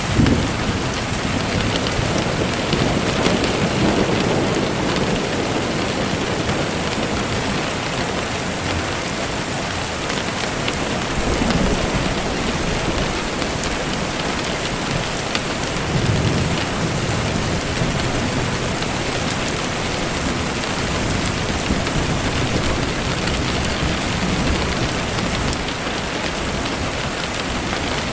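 Steady rain falling, with low rumbles of distant thunder swelling up a few times.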